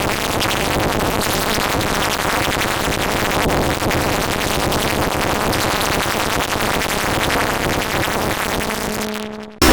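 Heavily distorted, effects-processed electronic logo audio: a dense, harsh, noisy synth wash. It fades out shortly before the end, and a new, louder burst of processed music with held tones cuts in abruptly.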